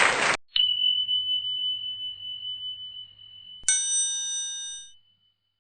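Two struck bell-like chime tones. The first, about half a second in, is a single clear ringing note that fades slowly over about three seconds. The second, a little after three and a half seconds, is a brighter bell with several overtones that dies away within about a second.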